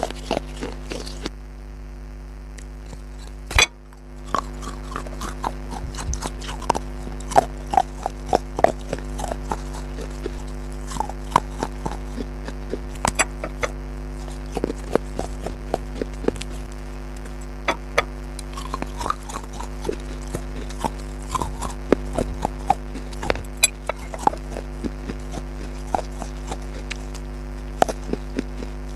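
Close-miked chewing of crunchy food: dense, irregular crunches and crackles over a steady low hum. A quieter stretch of about two seconds near the start ends in one sharp, loud crunch.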